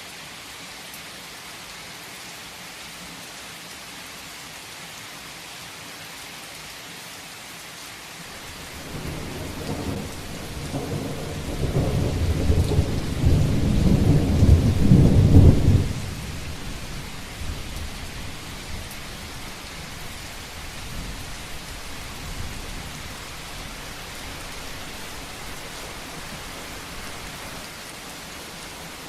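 Heavy rain falling steadily, with a long roll of thunder. The rumble swells from about a third of the way in, peaks loudest around the middle, drops off sharply, then grumbles away under the rain.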